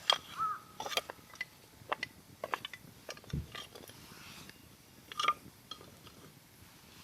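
Wood campfire crackling, with irregular sharp pops from the burning firewood. A crow caws about half a second in and again about five seconds in, and there is a dull low thump around the middle.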